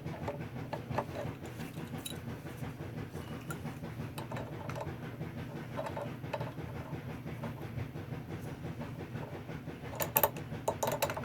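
Wrench clinking and tapping against the furnace's fuel-line fitting while loosening a small nut in a cramped spot: scattered light metal clicks, with a quick cluster of sharper clinks near the end, over a steady low hum.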